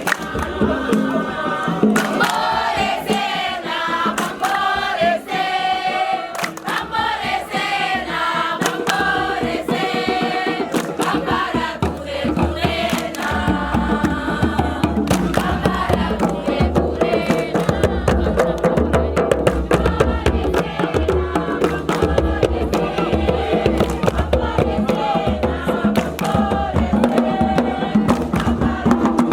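A group of voices singing a call-and-response chant, with a low drum beat coming in about halfway through and driving the song on.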